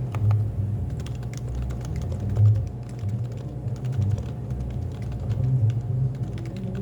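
Typing on a Happy Hacking Keyboard (HHKB): a steady run of keystroke clicks, several a second, over a cafe's constant low hum and rumble.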